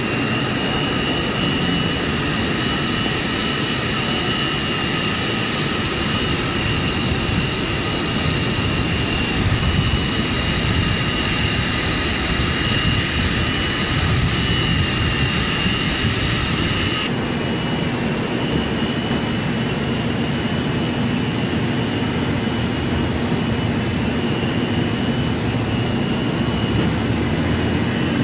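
Jet airliner engines running, a steady rumble with a high turbine whine. About two-thirds of the way in, the higher whine drops away and a lower steady hum takes over.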